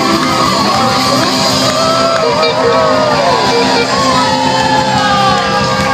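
A live rock band playing loud, with voices from the crowd shouting and whooping over the music.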